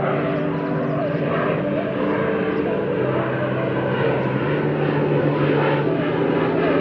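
Boat motor running under way: a steady engine drone whose pitch shifts a little a few times.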